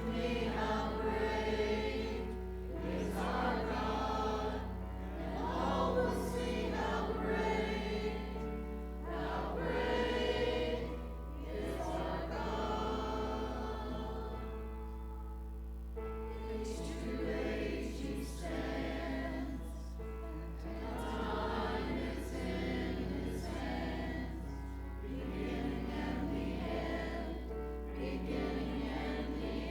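Church congregation singing a hymn together, phrase after phrase, with a steady low hum underneath.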